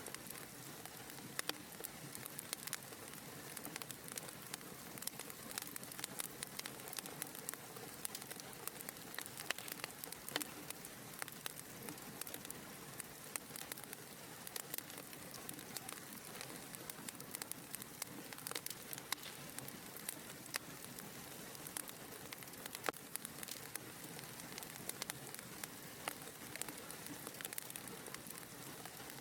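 Wood fire burning in a fireplace: a soft steady hiss with many small irregular crackles and pops.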